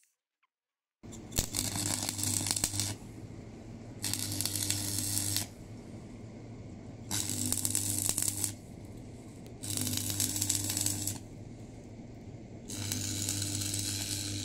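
Electric arc welder laying five short welds of about a second and a half each, the arc crackling and spitting over a steady buzzing hum, with short pauses between.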